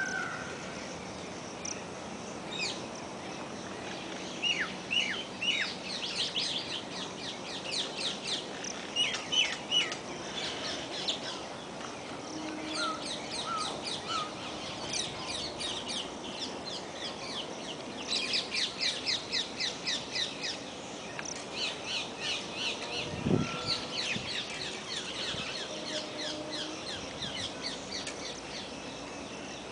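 Birds chirping and trilling, in quick runs of short, high, sharp notes with a few short falling whistles. A single dull knock about 23 seconds in.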